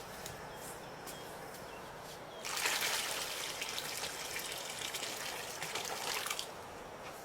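Water pouring or splashing for about four seconds, starting about two and a half seconds in and cutting off well before the end.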